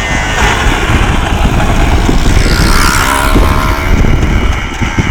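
Yamaha Blaster quad's two-stroke single-cylinder engine running, revving up in the middle and dropping back.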